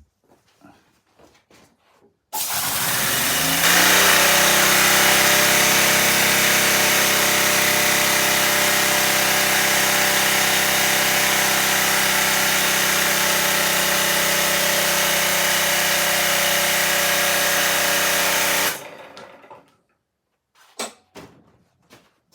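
A small high-speed rotary drive spinning an 18 V brushed DC string-trimmer motor used as a generator, its output short-circuited through a meter. It starts about two seconds in and rises quickly in pitch. It then runs at a steady high whine over a buzzing hum for about sixteen seconds, cuts off, and winds down.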